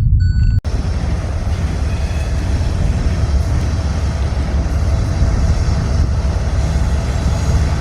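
A train rolling past close by: a loud, steady low rumble with rail and wheel noise that cuts in abruptly under a second in.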